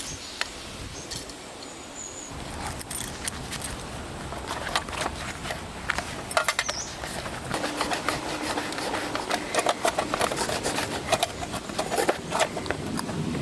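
Pieces of split firewood and metal parts knocking and clinking against a lightweight titanium fire pit, a scattered run of quick knocks that grows busier after the first few seconds.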